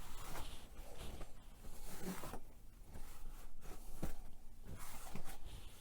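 Cloth wiping a dusty shelf in short rubbing strokes, with a few light knocks and clicks as items are handled.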